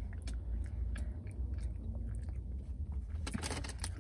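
A person chewing a soft pastry with small mouth clicks, then biting into it with a short cluster of crackly clicks near the end.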